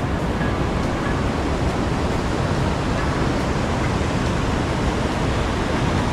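Steady, loud rushing of a forest river's flowing water.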